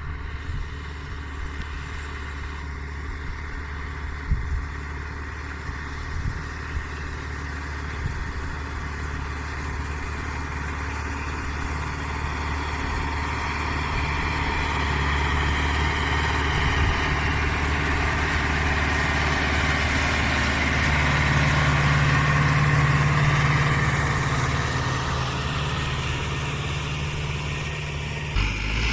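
Case CX80 tractor's diesel engine running steadily while pulling a four-furrow plough, getting louder toward the middle, with a few short knocks in the first several seconds.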